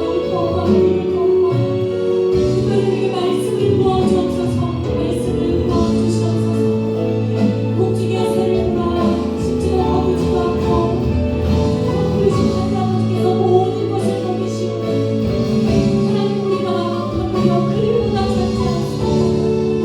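Church praise music: voices singing a worship song over a band accompaniment, with held notes and a steady pulse.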